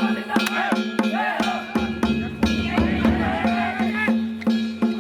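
Danjiri festival music (narimono): a drum and ringing kane gongs beaten in a steady rhythm of about three strokes a second, with voices calling over it.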